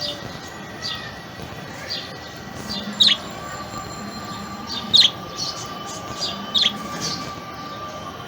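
A pet budgerigar giving short, sharp chirps, about one a second, the loudest three coming in the middle.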